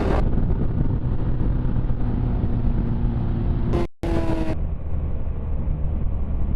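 Motorcycle engine running under heavy wind rumble on an onboard camera microphone. About four seconds in the recording cuts briefly, and a short burst of hiss follows.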